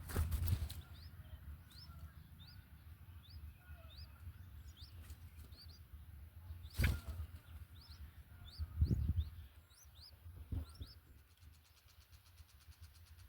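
A small bird chirping: short, thin rising notes about twice a second, broken by a few loud rustles or bumps, over a low rumble. Near the end a fast, fine ticking starts up.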